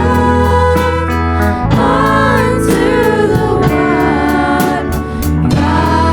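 Gospel-style worship song: sung voices over instrumental accompaniment with a steady bass line and a regular beat.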